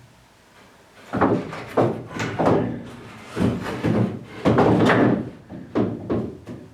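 A string of irregular wooden knocks and thuds, about nine of them, starting about a second in: timber being handled and struck while the wooden frame of a chicken tractor is worked on.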